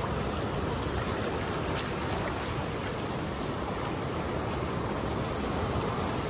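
Ocean surf washing steadily, with no single wave or other event standing out.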